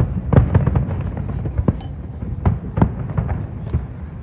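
Fireworks display: aerial shells going off in a rapid, irregular string of sharp bangs over a continuous low rumble.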